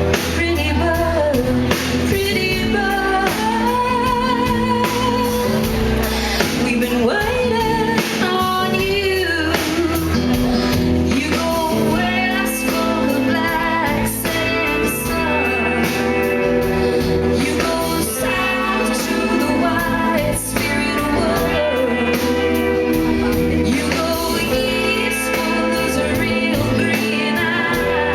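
Live performance of a song: a woman singing lead with vibrato over sustained instrumental accompaniment and a steady beat, in a large hall.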